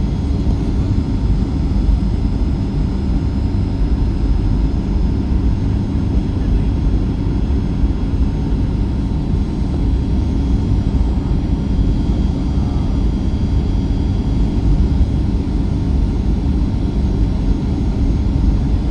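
Steady cabin noise of a Boeing 737-8 MAX in flight: its CFM LEAP-1B engines and the airflow make an even, low rumble with faint steady whining tones above it.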